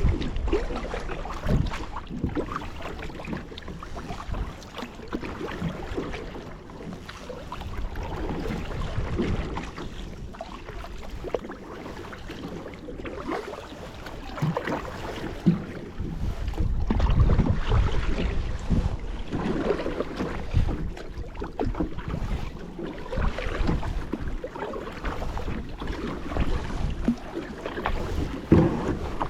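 Water splashing and lapping around a kayak as it is paddled, with wind rumbling on the microphone.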